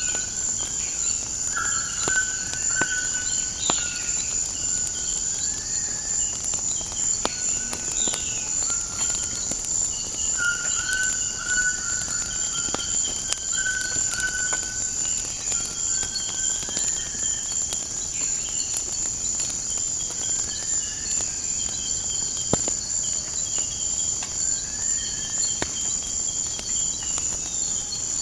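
Fire crackling with scattered sharp pops, over a steady high drone of insects and birds repeating short whistled calls, some of them rising.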